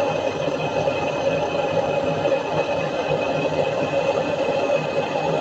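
Gas torch on a propane cylinder burning steadily with an even hiss, used to heat a cold chimney flue so it starts to draw.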